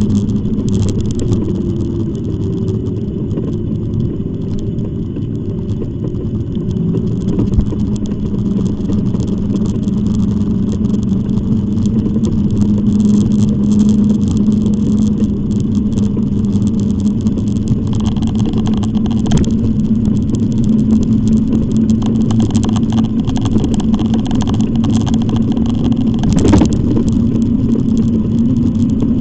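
E-bike in motion: a steady hum over constant wind and road rushing. There is a brief knock about seven seconds in and a sharper one near the end.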